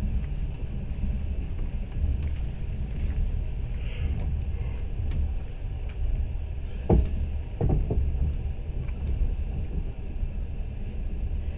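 Steady low rumble of a moving train running on its rails, with two louder knocks about seven seconds in.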